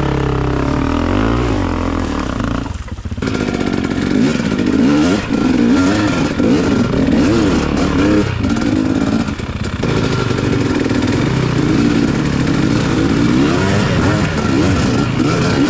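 Dirt bike engine revving up and down over and over as it is ridden, with the pitch rising and falling every second or so and brief dips off the throttle.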